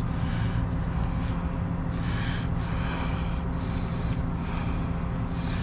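Heavy truck diesel engine idling steadily, with short hissing bursts every second or so over it.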